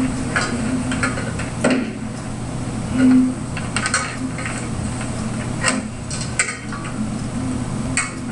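Dishes and cutlery clinking and being handled, a run of scattered light clinks and knocks over a steady low hum.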